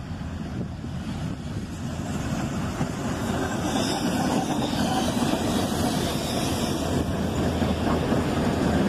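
Diesel freight train locomotives approaching and passing close by, a rumble of engines and steel wheels on rail growing steadily louder. The lead unit is a GP35 road slug with no engine of its own, so the engine sound comes from the GP40-2 and SD40-2-based units trailing it.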